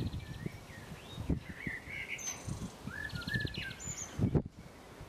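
Wild songbirds chirping and giving short buzzy trills, with irregular low rumbling and a couple of dull thumps underneath.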